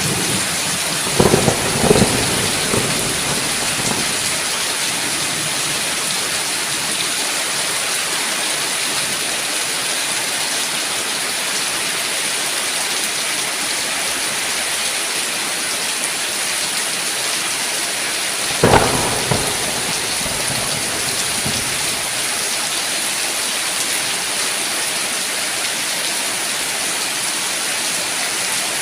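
Steady heavy rain hissing, with two short claps of thunder: one about a second in and one about two-thirds of the way through.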